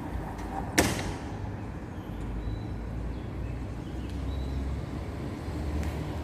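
Wind buffeting the microphone, a steady low rumble, with one sharp knock a little under a second in.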